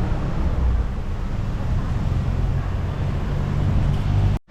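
Street traffic noise, a steady low rumble, cutting out abruptly for a moment near the end.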